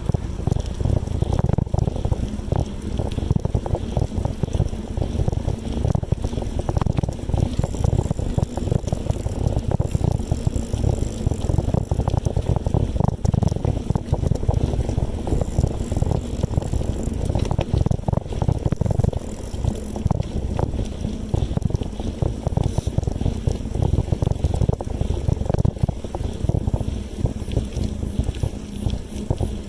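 Wind buffeting the microphone of a moving bicycle: a continuous, gusty low rumble.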